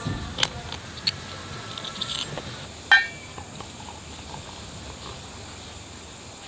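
Tableware clicking during a meal: a few light clicks and one ringing metal clink about three seconds in, over a steady low background.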